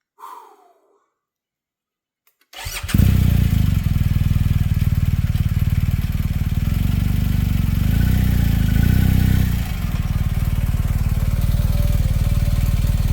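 Adventure motorcycle engine started with the electric starter, catching at once about two and a half seconds in, then running steadily at idle. It is raised slightly for a moment around eight seconds in.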